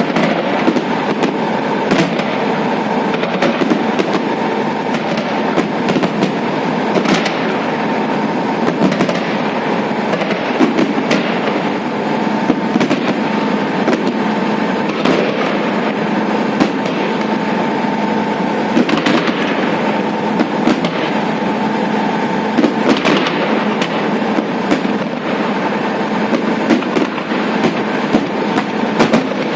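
Fireworks salute going off: a dense, continuous crackle with louder bangs every few seconds.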